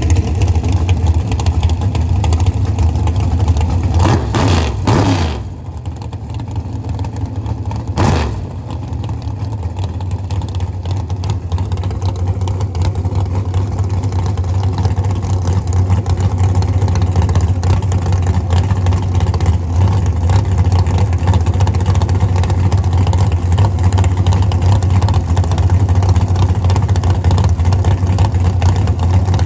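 Drag racing car engines running loud, with a rising rev about four seconds in, a short sharp burst near eight seconds, then a steady engine sound that slowly swells.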